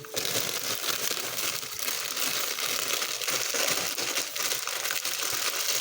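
Continuous crinkling and rustling of salad greens being handled, made of many small crackles.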